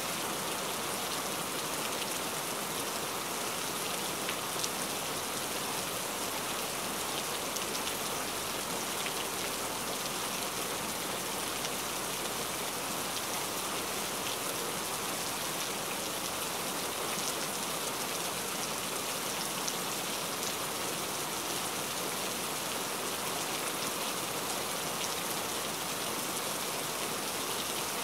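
Heavy rain falling steadily, an even hiss with many small drop ticks scattered through it.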